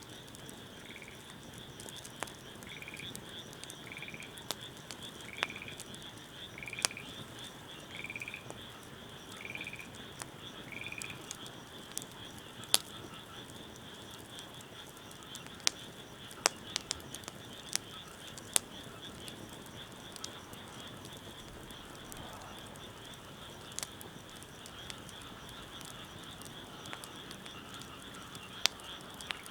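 Wood fire crackling with scattered sharp pops, over a steady high-pitched chorus of frogs. During the first ten seconds or so, one animal gives a run of about eight short calls, roughly one a second.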